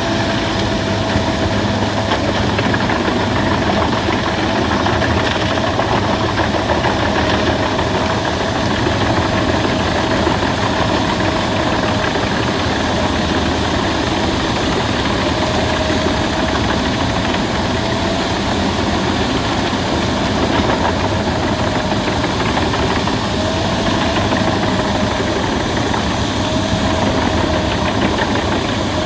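Albach Diamant 2000 wood chipper running steadily under power, with a constant mechanical din and a held whine that wavers slightly in pitch.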